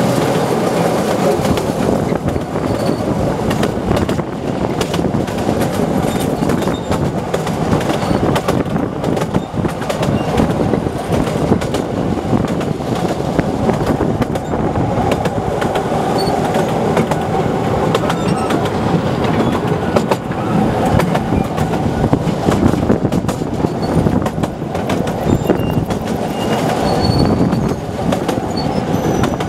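Narrow-gauge Artouste tourist train running steadily, heard from its open carriage: a continuous rumble with the rattle and clatter of the wheels on the rails.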